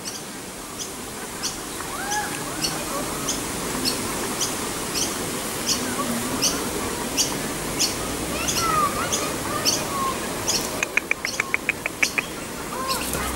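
Birds chirping: a short high chirp repeated steadily about one and a half times a second, with a few lower whistled notes scattered among them and a quick run of about ten ticks near the end.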